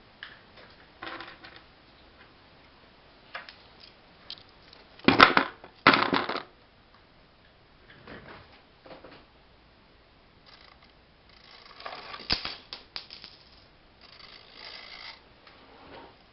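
Irregular clicks, taps and short rattling or scraping noises from a small mechanism being handled, with two louder rattles about five and six seconds in and another cluster a little past the middle.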